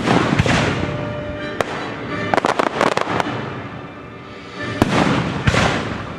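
Fireworks going off: a sharp bang right at the start followed by a crackling hiss, a quick cluster of crackling pops about two and a half seconds in, then more bangs near the end, over orchestral music.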